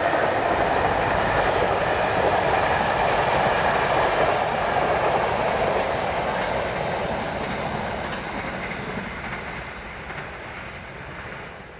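Passenger coaches of an intercity train rolling past on the rails, a loud steady rush of wheel and track noise that fades away over the second half as the train moves off.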